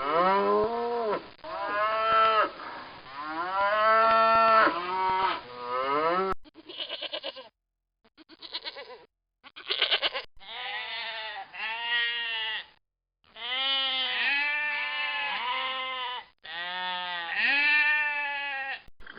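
Livestock bleating: a series of drawn-out bleats, some with a quavering tremble, cut together from separate recordings with abrupt breaks and short silences, the first about six seconds in.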